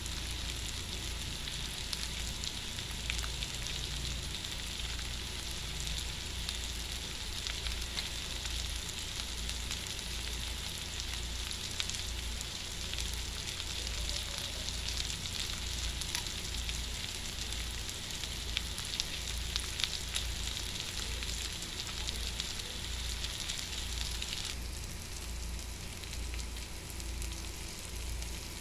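Chicken, sliced hotdogs, red onion and chili peppers sizzling in hot oil in a wok, with scattered pops over a steady low hum. The sizzle drops abruptly in level near the end.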